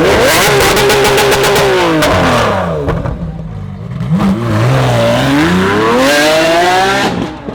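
A high-performance car's engine and exhaust revving hard: the pitch climbs and holds, drops away, then climbs again and cuts off near the end.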